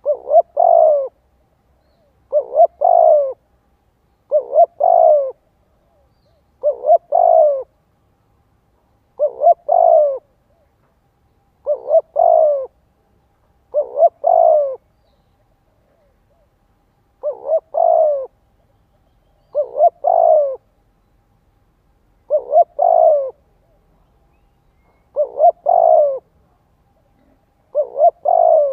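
Spotted dove cooing, a short note run into a longer one, repeated about every two seconds, twelve times over. This is the bird's rapid 'thúc gù' coo, played as a decoy call to provoke wild males.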